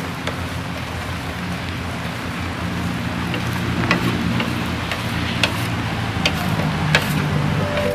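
Knife working against the bamboo slats of a platform floor, giving several short sharp clicks and taps at uneven intervals over a steady background hiss and low hum.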